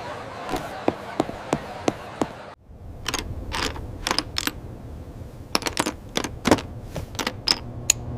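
A run of sharp, irregularly spaced clicks over a low steady background hum, sounding like typing or tapping; the background drops out suddenly a little over two and a half seconds in, and the clicks carry on after.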